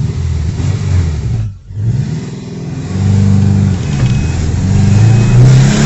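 Subaru Forester's flat-four engine accelerating. About a second and a half in the engine note drops briefly, as in a manual gear change, then it climbs steadily in pitch again. The freshly swapped-in replacement engine is pulling cleanly.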